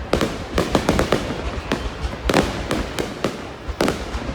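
Fireworks display: a dense, irregular run of sharp bangs and crackling, several a second, over a continuous low rumble.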